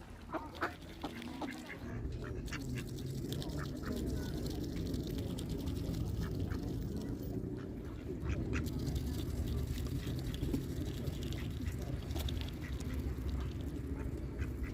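A duck quacking a few short times in the first second or two, followed by a steady low rumble that carries on underneath and is the loudest part.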